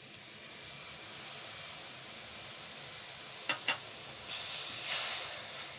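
Stir-fried noodles sizzling in a hot steel pan: a steady hiss that grows louder for about a second near the end, with two light clicks just before it.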